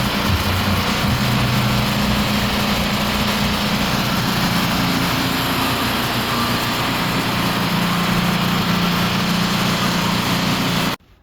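An engine running steadily under a loud, even hiss, with a steady low hum that shifts slightly in pitch; it cuts off suddenly near the end.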